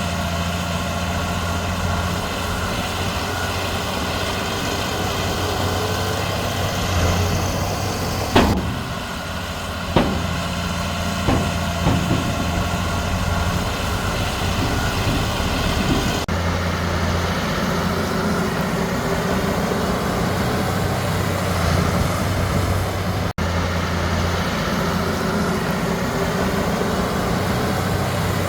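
Heavy diesel earthmoving machinery, a Komatsu D31P bulldozer working with dump trucks, running steadily. A couple of sharp metallic clanks come about 8 and 10 seconds in.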